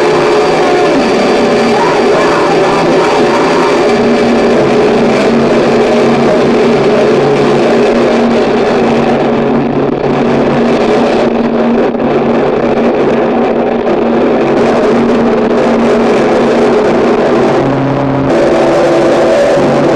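Harsh noise music: a loud, dense wall of distorted noise with several held droning pitches underneath, which shift about two seconds before the end.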